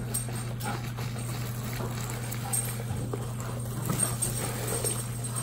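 Eating sounds: biting and chewing corn on the cob, with small wet clicks and crinkles of plastic gloves, over a steady low hum.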